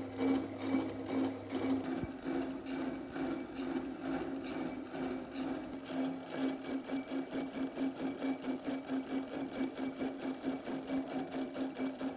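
Restored antique key cutting machine running, a rhythmic mechanical whirring with a steady hum that pulses about three to four times a second.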